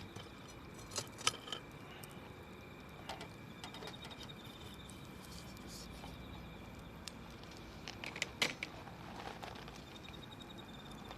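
Wood fire crackling: a steady low hiss with scattered sharp pops. The loudest pops come about a second in and in a cluster about eight seconds in.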